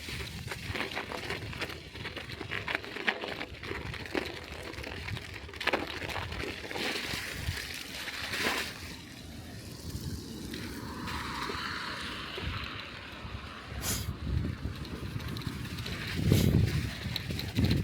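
Bicycle riding over snow-covered streets: a steady rough noise of tyres on snow with scattered clicks and rattles, and low rumbling gusts on the microphone near the end.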